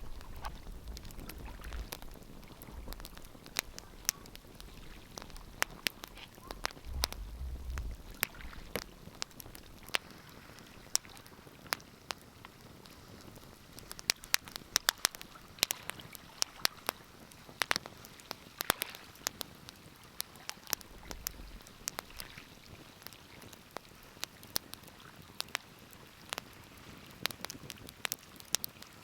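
Wood fire in a fireplace crackling, with irregular sharp pops and snaps that come thickest about halfway through.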